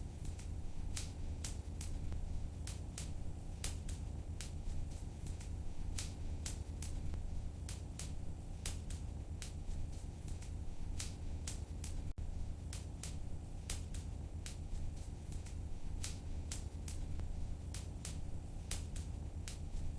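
Wood fire crackling in a fireplace: irregular sharp pops and snaps, a few each second, over a steady low rumble of the burning fire.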